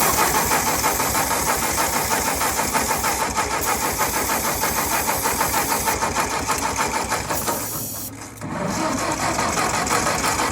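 Ford 600 tractor engine being turned over by its starter, which is wired straight to the battery: a steady, rhythmic cranking that does not catch. It dips briefly about eight seconds in, then picks up again.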